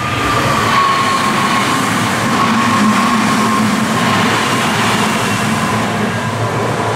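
Red Meitetsu electric train passing close by on the line, a steady loud rush of wheels and running gear with a motor whine that slowly falls in pitch.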